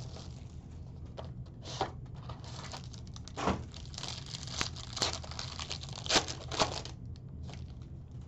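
A trading-card pack being torn open, its wrapper tearing and crinkling in irregular rasps, loudest a little before halfway and again about three-quarters through.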